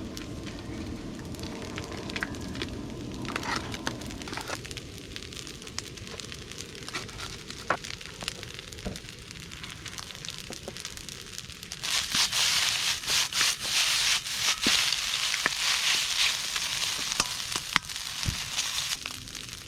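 Wood fire crackling with scattered sharp pops, then a sudden loud sizzle about twelve seconds in as food fries in a hot wok over the fire; the sizzle lasts some seven seconds and drops away near the end.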